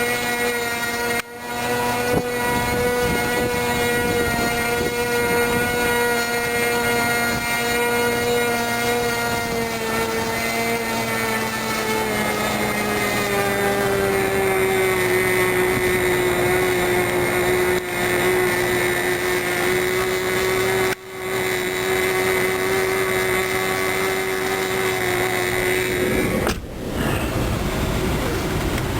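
Model airplane nitro glow engine with its propeller running steadily at high speed during a break-in run, a high buzzing whine whose pitch drops about halfway through and then holds steady. The sound breaks off very briefly a few times.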